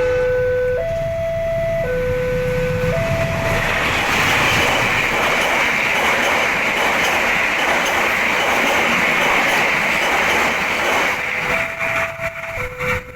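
Electronic two-tone level-crossing alarm stepping between a higher and a lower note about once a second. A few seconds in, a passing train's rushing wheel-and-rail noise swamps it. The alarm is heard again near the end as the train clears.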